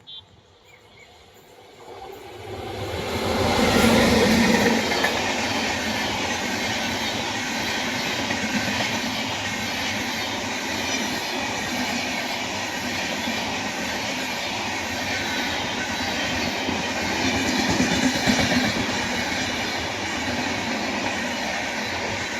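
Himsagar Express passenger train passing close by. It swells quickly over the first few seconds, then holds as a steady rush of coaches and wheels clattering over the rails.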